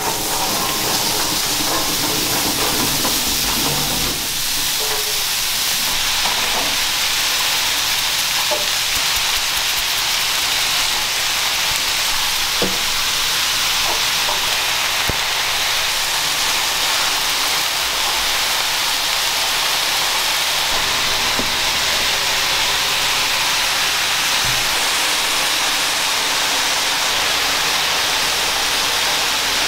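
Sliced onions tipped onto a hot flat-top griddle, setting off a loud, steady sizzle that builds over the first few seconds and then holds, with a few faint clicks.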